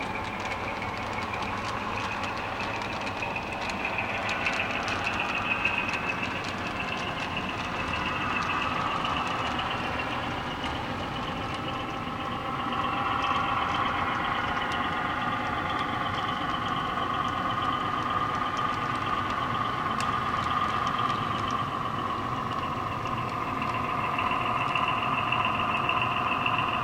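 HO scale model train running: a steady engine-like drone with a whine that slowly drifts up and down in pitch, and faint scattered clicks.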